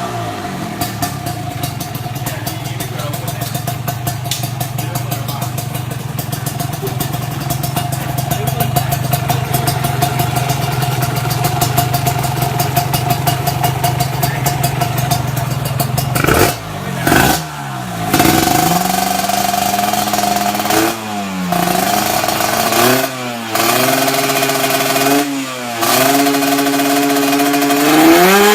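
Kawasaki KR150's single-cylinder two-stroke engine idling steadily, then revved in a series of quick throttle blips about halfway through, each rising and falling in pitch.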